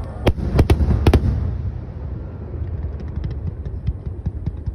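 Aerial fireworks shells bursting in a rapid finale barrage: four sharp bangs in the first second or so over a low rumble, then many small, fainter crackles through the rest.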